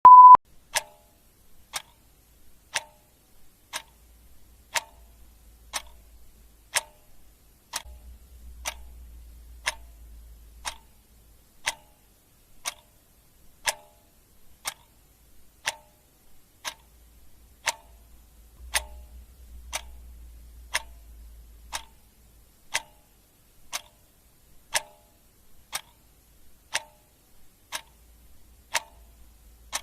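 Clock ticking steadily, about one tick a second, with a short loud beep at the very start.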